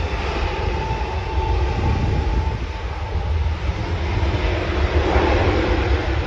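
Jet airliner engines on the runway: a loud, steady rumble with a faint whine early on.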